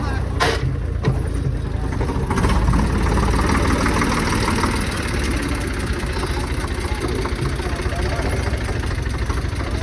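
Tractor diesel engine running steadily with a low rumble, with a sharp click about half a second in and faint voices in the background.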